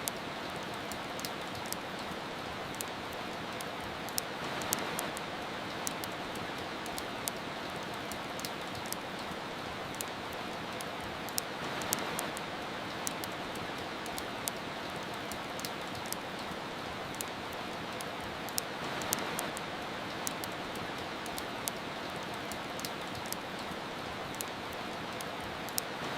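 Steady rain with the scattered pops and crackles of a wood fire burning; the rain swells gently about every seven seconds.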